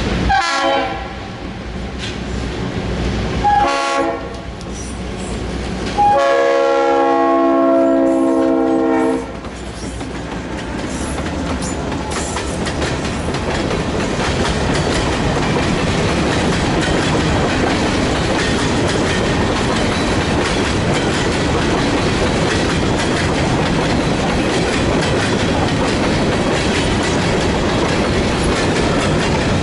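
Freight train's diesel locomotive sounding its horn as it approaches: three blasts, each a chord of several notes, the last held about three seconds. The locomotive passes, then covered hopper cars roll by close with steady wheel clatter on the rails.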